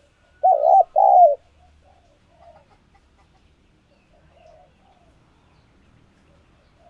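Spotted dove cooing: two loud, short coo notes in quick succession about half a second in. This is the kind of decoy-dove call used to draw wild doves.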